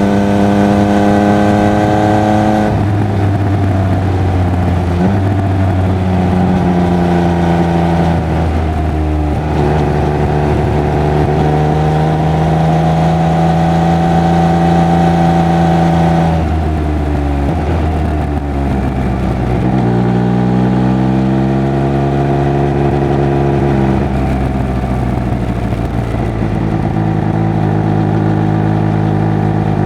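Triumph Speed Triple 1200 RR's three-cylinder engine and exhaust under way on the road. The engine pitch climbs under throttle and falls away several times, dropping back a few seconds in and again about halfway through before rising once more.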